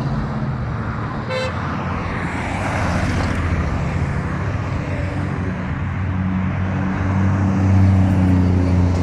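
Heavy trucks' engines running as a convoy passes, over road noise, with a short horn toot about a second and a half in. A deep engine note grows louder over the last few seconds as a truck comes close.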